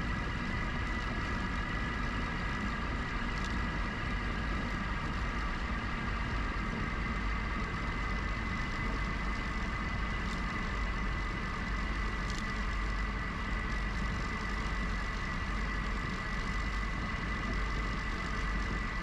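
Steady wind rumble and riding noise from a GoCycle GX electric bike rolling along at an even pace, with a steady high whine and a few faint clicks.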